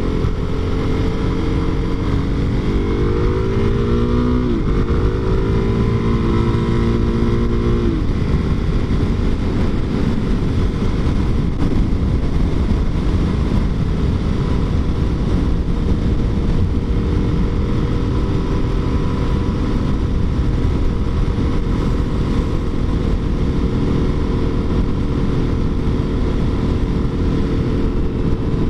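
Motorcycle engine pulling hard while riding, rising in pitch and dropping at an upshift about four and a half seconds in and again about eight seconds in, then holding a steady cruise. Heavy wind noise rushes over the microphone throughout.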